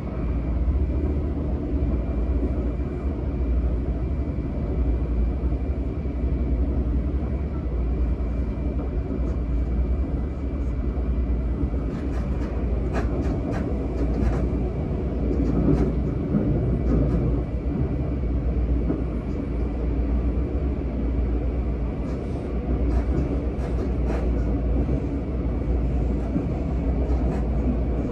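Seibu 10000 series electric train (Hitachi IGBT-VVVF set 10112F) running at speed, heard from inside the passenger car as a steady low rumble of wheels on rail. Short sharp clacks from the wheels over the track come in a cluster about halfway through and again later.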